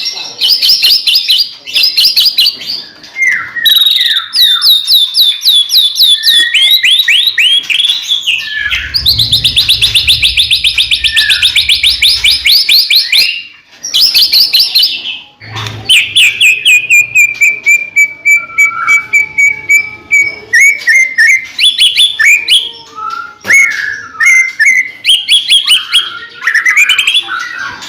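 White-rumped shama (murai batu) singing loudly and without pause: fast runs of repeated sharp notes and trills, with one long held whistle a little past the middle.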